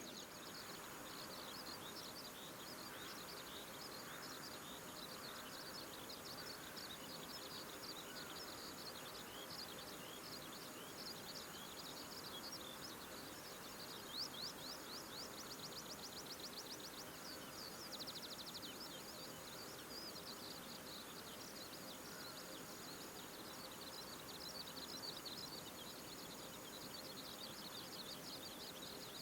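Small wild birds chirping and twittering continuously, with a rapid trill about halfway through. A faint steady high tone runs underneath.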